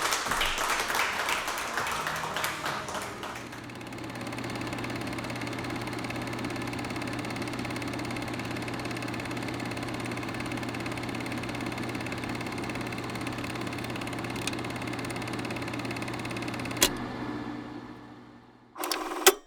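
A few seconds of scattered clapping dying away, then a steady low machine hum with a constant pitch. A single click comes near the end, and the hum fades out.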